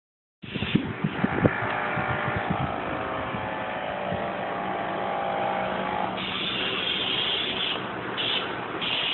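A motorcycle engine running, starting suddenly about half a second in. There are several sharp cracks in the first second or so, then a steady note.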